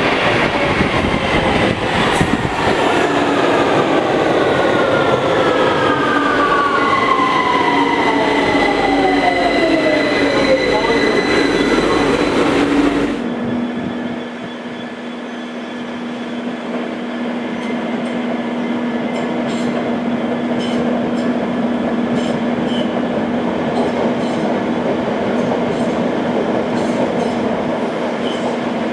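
London Underground train pulling into a station, its motor whine falling steadily in pitch as it brakes, with a steady high squeal partway through. It cuts off suddenly about 13 seconds in to an electric train on an overhead-wired main line, running with a steady low hum and faint ticks.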